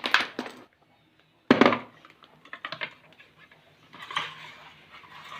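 Hard objects being handled: a few sharp clicks, a louder knock about a second and a half in, more light clicks, then a rustling scrape near the end.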